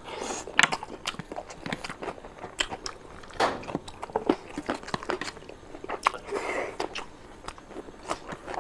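Close-up mukbang eating sounds: a person biting into a mouthful of chicken curry and chewing it open-mouthed, with wet smacks and a quick run of sharp clicks.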